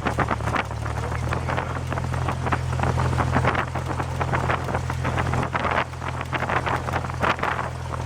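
Cessna 172's piston engine and propeller droning steadily at a low pitch, with an uneven rushing noise over it.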